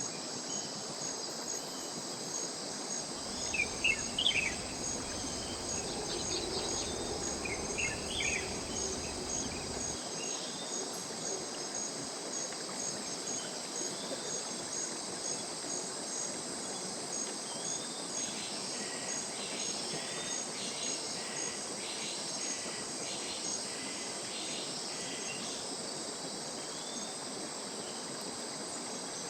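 A dense chorus of insects keeps up a steady, fast-pulsing high trill over the even hiss of a mountain stream. A few short bird chirps come about 4 and 8 seconds in, and a run of repeated bird calls follows from about 18 to 24 seconds.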